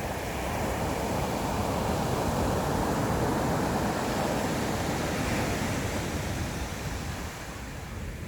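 Sea waves breaking on the shore: the wash swells to a peak a few seconds in, then eases off.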